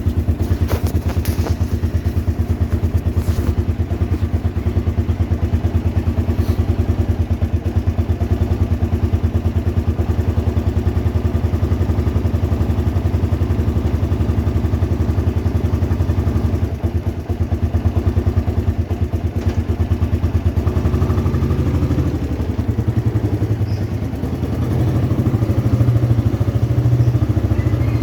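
Motorcycle engine running steadily with a rapid low pulsing, its note dropping and growing louder about three quarters of the way through.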